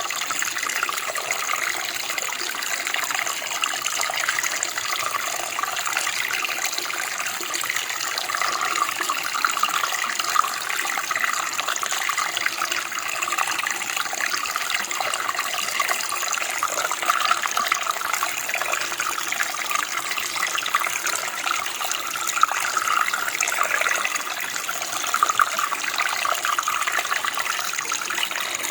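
Running water, a steady rushing and babbling flow that keeps on without a break.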